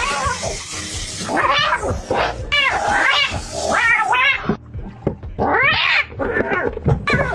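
An angry domestic cat yowling in a run of drawn-out, wavering wails, protesting while its fur is plucked. There is a noisy rush in the first second.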